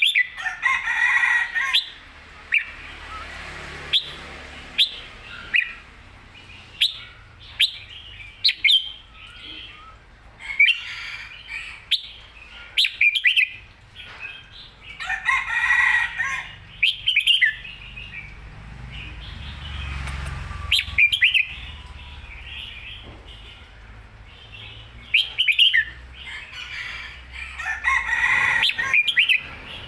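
Red-whiskered bulbul singing a lively, full song of the kind kept for song contests: short, sharp chirping phrases every second or two, with a denser warbling burst about a second in, again midway and near the end.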